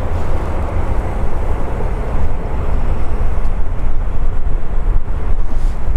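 Jet airliner's engines heard at close range: a loud, steady rumble with a broad hiss over it.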